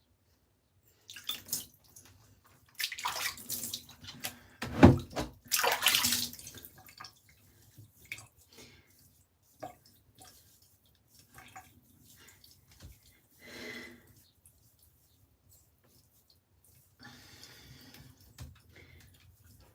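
Water splashing and pouring in a bathtub while a puppy is washed, in irregular bursts that are loudest a few seconds in, then scattered smaller splashes and drips.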